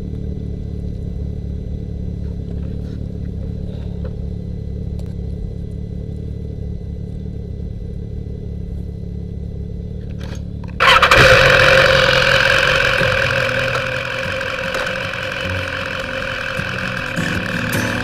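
BMW S1000R inline-four motorcycle engine starting a little past halfway through, with a loud burst that settles over a few seconds into a steady idle. Before the start there is a low, steady rumble.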